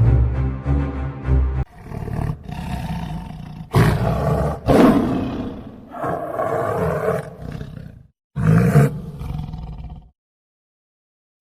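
Music with a regular beat for under two seconds, then a string of loud animal roars one after another, cutting off suddenly about ten seconds in.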